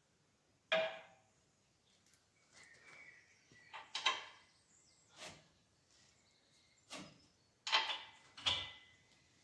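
A handful of separate metallic clinks and knocks, spaced out, as steel bolts, washers and nuts are handled and fitted by hand.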